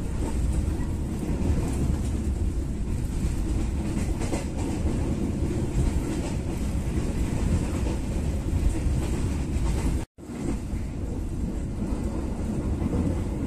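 Steady low rumble of a moving passenger train heard from inside an executive-class coach, the wheels running on the rails with a few faint clicks. The sound cuts out completely for a split second about ten seconds in.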